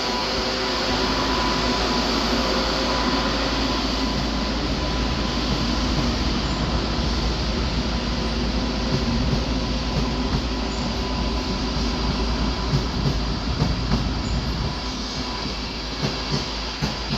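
Railjet passenger train rolling out of the station: a steady rumble and rush of wheels on rails with a faint whine, and sharp clicks from the wheels over rail joints in the second half. It grows slightly quieter near the end.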